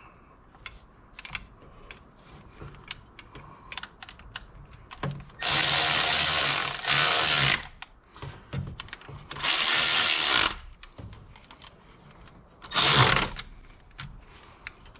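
Power driver spinning bolts down in four short runs, running down the water pump bolts on a Jeep 4.0 engine, with small metallic clicks of tool handling in between.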